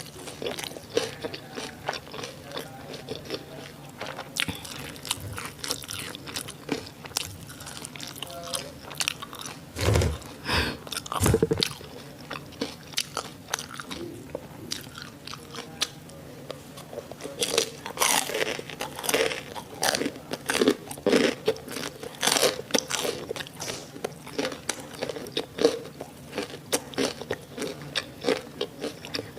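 Close-miked eating sounds of crispy fried sausages and onions: repeated crunching bites and wet chewing. A couple of louder, low muffled bumps come about ten to eleven seconds in.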